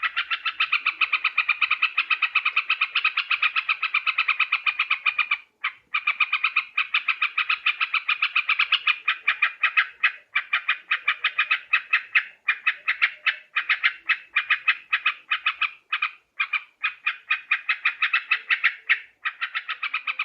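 Yellow-vented bulbul calling in a fast, continuous chatter of short notes, about five a second, with a few brief breaks. It is a recording used as a lure call to draw in wild birds.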